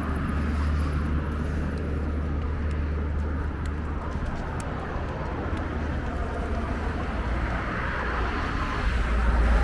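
Steady city street ambience: a continuous low rumble of road traffic under a general outdoor hum, with a few faint clicks.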